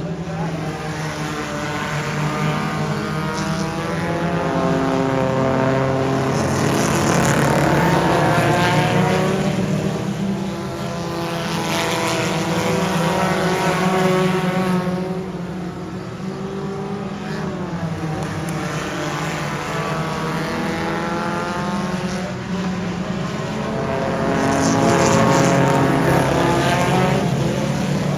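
Several race car engines running laps on a dirt oval, the sound swelling and fading as cars pass, loudest about a third of the way in and again near the end.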